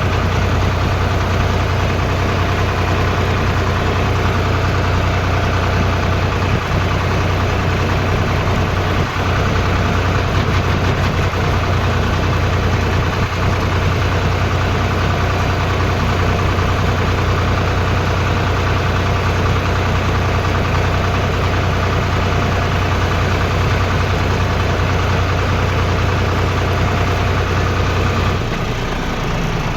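Tractor engine running steadily with a deep, even hum. A little before the end the low note drops away and the sound eases slightly.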